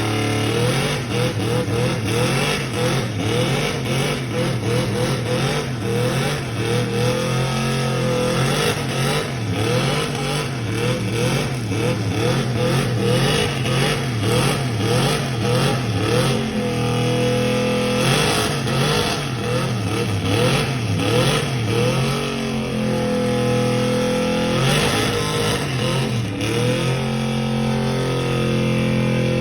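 Truck engine revving hard during a burnout, its pitch wavering rapidly up and down, then held at high revs for a few seconds twice in the later part.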